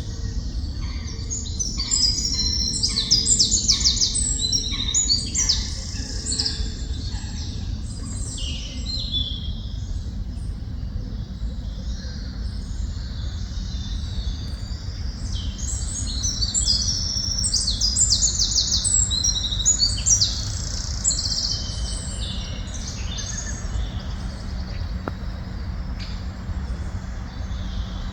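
Songbirds singing rapid chirping, trilling phrases in two busy bouts, over a steady low rumble.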